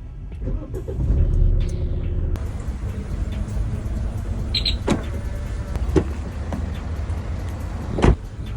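Kia Sportage engine starting about half a second in and settling into a steady idle. A short high beep comes in the middle and three sharp clicks follow later.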